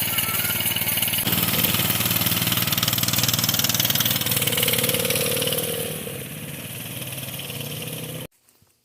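Coleman BT200X minibike's single-cylinder four-stroke engine running steadily. It grows quieter about six seconds in, and the sound cuts off abruptly near the end.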